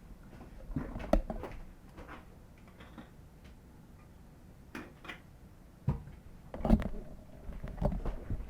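A few light knocks and clicks scattered over quiet room tone, with the loudest a little after a second and toward the end.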